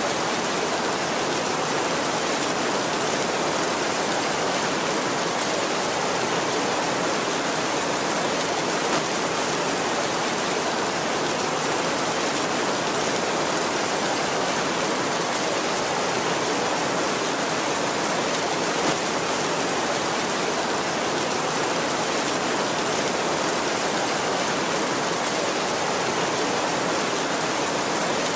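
Heavy rain falling steadily on a tin roof: an even, unbroken hiss with no thunder.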